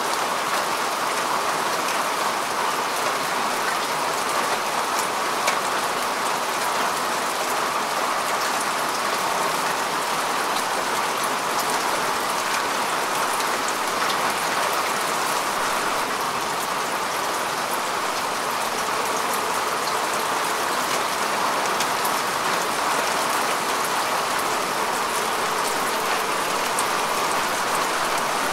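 Steady rain falling on earth and grass, an even hiss with fine individual drop ticks throughout.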